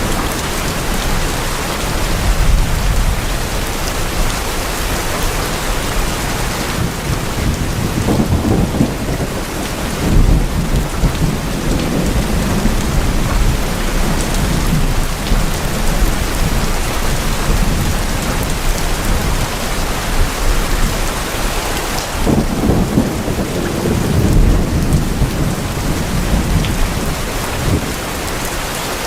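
Steady rain falling on tin roofs, a dense even hiss, with low rolls of thunder swelling up three times.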